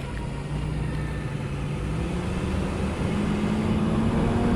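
Vehicle engine running under load during a recovery of a stuck box truck, its pitch and loudness climbing slowly as the truck starts to move, then easing off right at the end.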